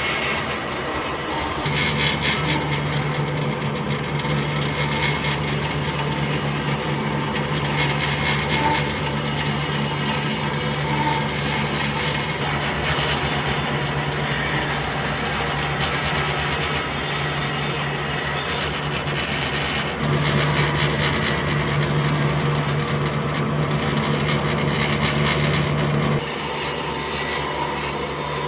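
A power tool working wood, a steady motor hum under a continuous rasping, abrasive noise. The hum comes in about two seconds in and cuts off a couple of seconds before the end, while the rasping goes on.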